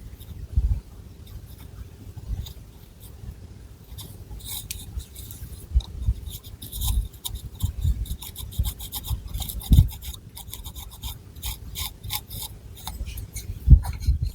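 Long fingernails scratching and rubbing through thick hair on the scalp, close to the microphone: quick, crackly rasping strokes, busier from about four seconds in, with a few low thumps of handling, the loudest near ten and fourteen seconds.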